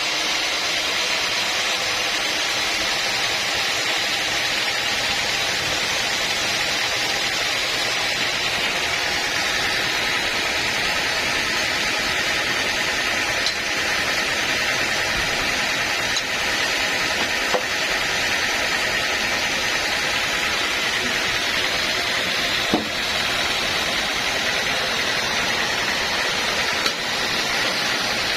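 Sawmill machinery running steadily: a continuous hissing noise with a faint high whine, and a few light knocks.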